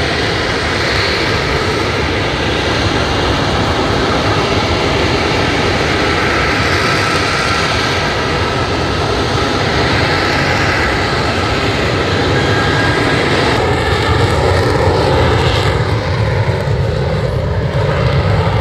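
Airplane engine noise, loud and steady, swelling a little in the last few seconds as the aircraft passes.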